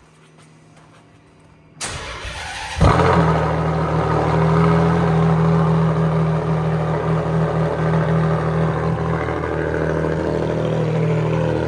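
Ferrari Enzo's straight-piped 6.0-litre V12 cold-starting. The starter cranks for about a second, the engine catches with a sudden jump in loudness about three seconds in, then settles into a loud, steady idle.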